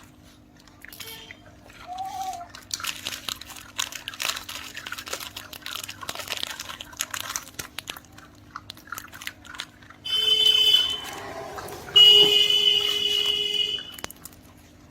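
Puppies chewing and crunching, with many small crackling clicks. Near the end come two steady high-pitched squeals, each lasting a second or two.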